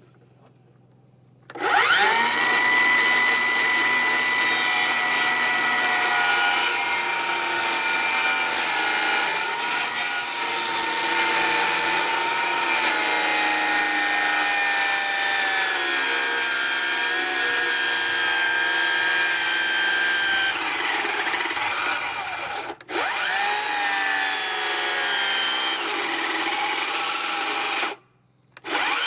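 A cordless electric power tool's motor running at a steady high whine as it cuts a notch into a wooden rail, the pitch sagging slightly under load. It stops for a moment twice near the end and starts up again each time.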